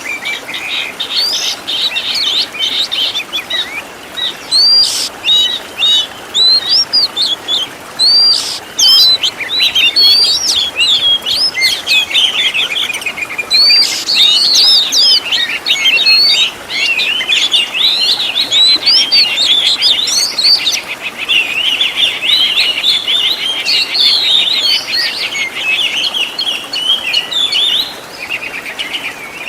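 Oriental magpie-robin (kacer) singing a long, unbroken, varied song of whistled glides and rapid trills, packed with mimicked calls of other birds.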